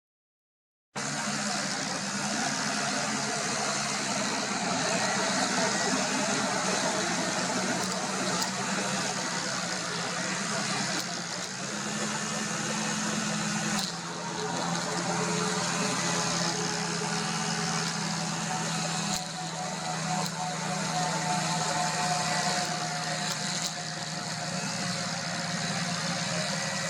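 Steady outdoor background noise with a low mechanical hum, like a running engine or traffic, starting abruptly about a second in.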